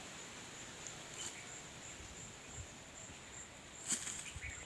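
Insects, likely crickets, trilling steadily at a high pitch, with a couple of short clicks, the loudest near the end.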